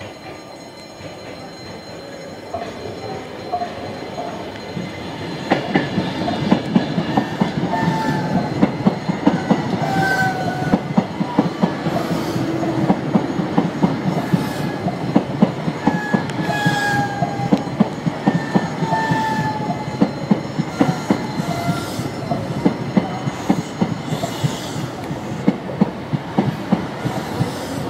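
Electric passenger train passing close by. It grows louder over the first few seconds as it approaches, then runs on with wheels clicking over rail joints and points. Brief high wheel squeals come and go throughout.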